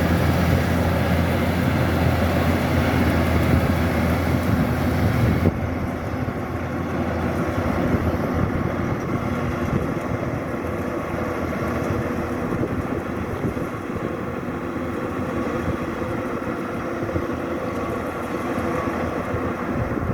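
Kubota DC-105X combine harvester running steadily with a constant engine hum. About five seconds in, the sound abruptly turns duller and a little quieter.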